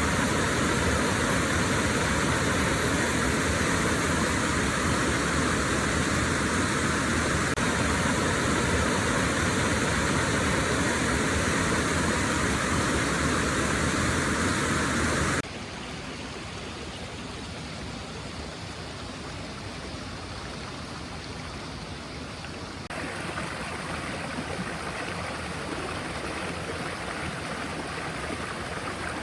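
Rushing water of a river or stream, a steady noisy rush. About halfway through it drops suddenly to a quieter rush, then steps up a little again near the end.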